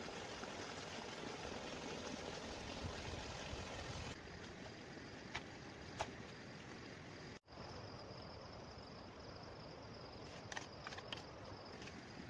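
Steady rushing outdoor noise like running water, with a few light clicks or knocks; the sound changes abruptly at two cuts.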